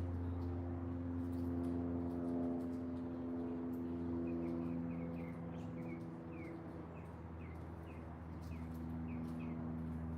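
A small bird chirping in short, falling notes, about two a second, from about four seconds in, over a steady, sustained drone of ambient music.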